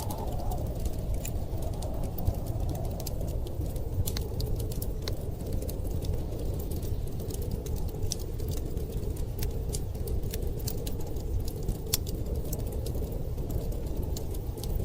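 Wood fire crackling with irregular sharp pops over a steady low rush of blizzard wind.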